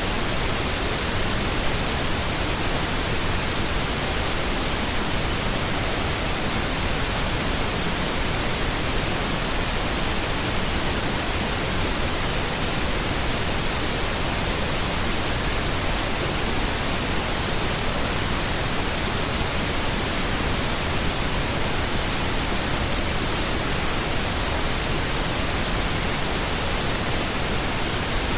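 Steady pink noise: an even, unchanging hiss spread across low and high frequencies, with no tones, clicks or changes.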